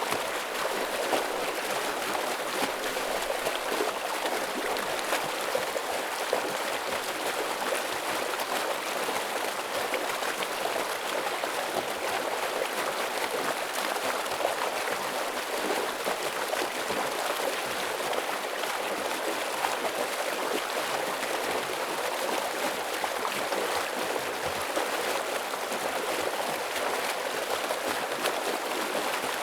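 Heavy stream water flowing steadily, a dense rushing babble with constant small splashes.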